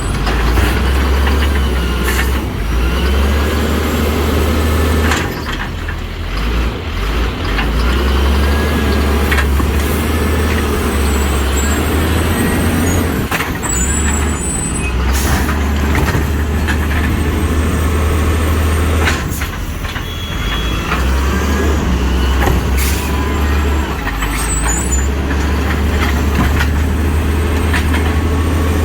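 Garbage truck's engine running hard in stretches of several seconds, then easing back, with scattered sharp knocks and bangs of recyclables being dumped and a few brief high squeals.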